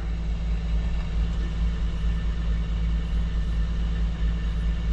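Semi truck's diesel engine idling steadily with a low rumble, running to supply air to a dead truck's brake system.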